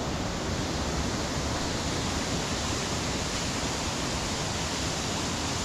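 Steady rush of water from a brook running down below.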